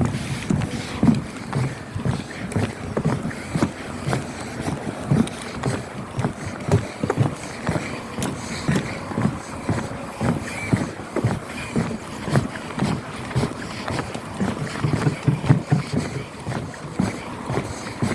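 Footsteps knocking on a floating marina pontoon at a steady walking pace, about two a second.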